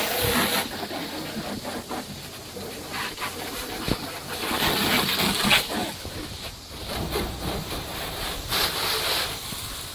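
Garden hose spraying water onto a car's body to knock off loose dirt before washing, a hissing spatter that rises and falls in loudness.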